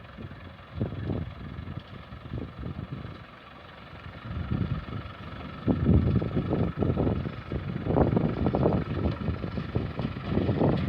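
Wind buffeting the microphone in irregular gusts, growing louder about halfway through, over a faint steady high whine.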